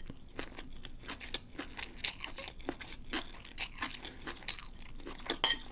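Close-miked chewing of a mouthful of pancit bihon, rice noodles with pork and vegetables: irregular wet smacks and small crunches, a few a second.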